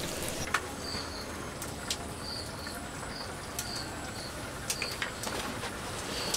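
A small bird chirping, short high chirps often in pairs, repeating every half second to a second over a steady background hiss, with a few light clicks and taps.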